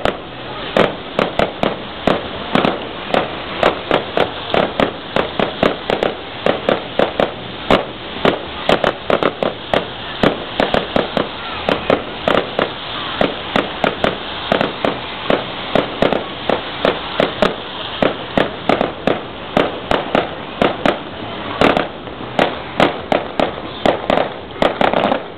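Fireworks display: shells bursting in a rapid, irregular barrage of sharp bangs and cracks, several a second.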